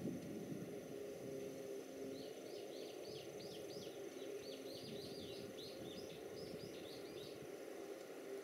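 A small bird calling in a quick run of short chirps, starting about two seconds in and stopping near the end, over a faint steady low rumble and hum, with a brief low thump at the very start.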